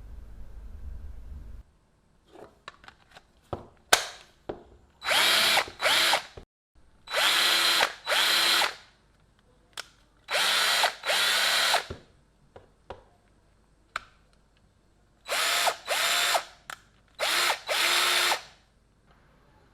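DeWalt DCD710 12-volt cordless drill motor run in short bursts of about half a second to a second and a half, eight or so times, its whine rising and falling in pitch as the trigger is worked. Sharp clicks come between the runs. A low hum at the start cuts off suddenly before the first click.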